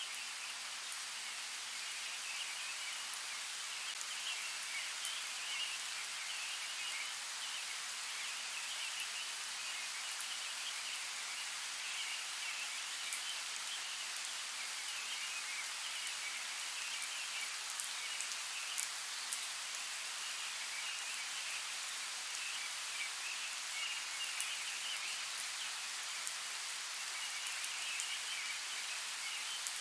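Steady heavy rain falling: an even hiss with scattered sharp drop ticks, over a continuous high, flickering chirping chorus in the background.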